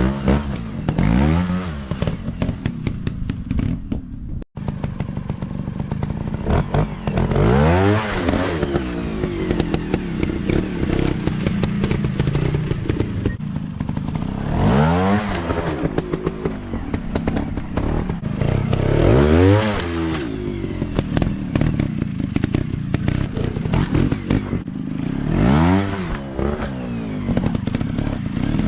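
Dirt bike engines revving up and falling back again and again, with rattles and knocks mixed in. The sound drops out for an instant about four and a half seconds in.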